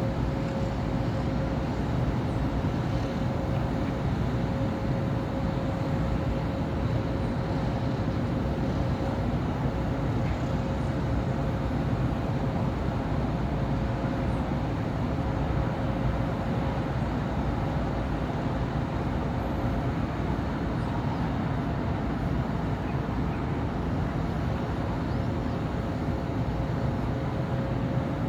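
Steady city street traffic: a continuous rumble of cars and buses passing on a busy urban avenue. A thin steady hum sits in the background, drops out about twenty seconds in and returns a few seconds later.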